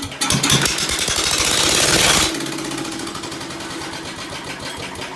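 Old Ford tractor engine being started, firing loudly and roughly for about two seconds, then dropping to a quieter, steadier running sound. It fires but won't keep running: the owner takes it to be way too lean and badly out of tune after the carburetor was cleaned and refitted.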